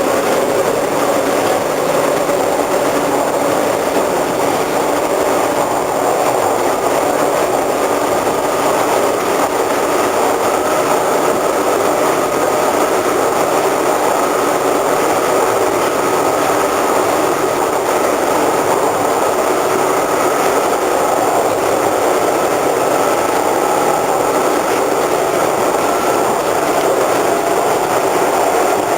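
Cabin of a moving 1976 Hawker Siddeley H5 subway car: steady running noise with a grinding from the ventilation fan next to the cab, which grinds when the train accelerates. A thin whine rises slowly through the middle.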